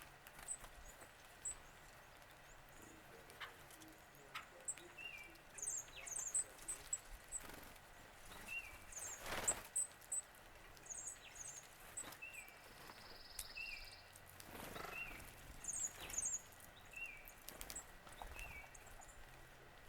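Several wild birds calling: many short, very high chirps, with a repeated lower hooked call note about once a second in the middle and later part. There is a brief buzzy note just after 12 seconds, and brief rustling noises near the middle, the loudest about halfway through.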